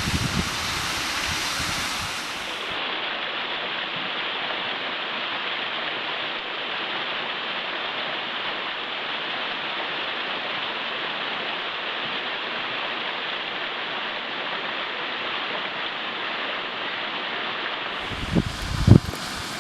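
Water rushing steadily down a waterfall, a continuous even rush. Wind buffets the microphone in the first couple of seconds and again near the end.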